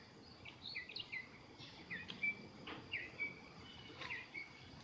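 Small birds chirping: short, hooked calls repeating a couple of times a second, with a few faint taps.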